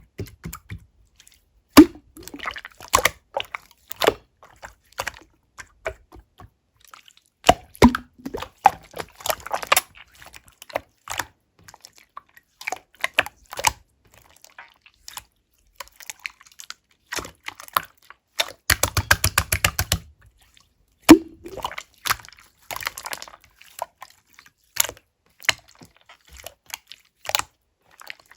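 Clear slime being squeezed and worked by hand, giving sticky clicks and small wet pops in irregular clusters, with a quick run of rapid clicking about two-thirds of the way through.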